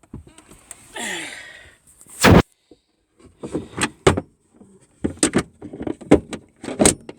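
Cupboard doors and fittings inside a small camper van being handled: a scrape about a second in, a loud bang just after two seconds, then a string of short knocks and clatters.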